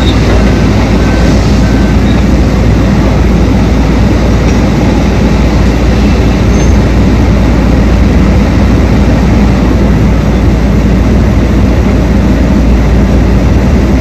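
Heavy diesel engine running at a steady pitch: a loud, unbroken low rumble.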